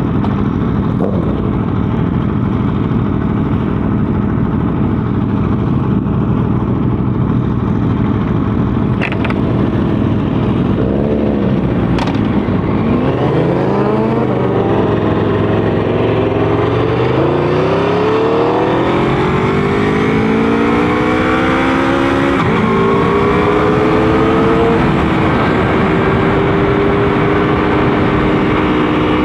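Motorcycle engine running at a steady note, then climbing in pitch several times as it accelerates through the gears, and settling to a steady higher pitch toward the end, with a constant rush of wind noise.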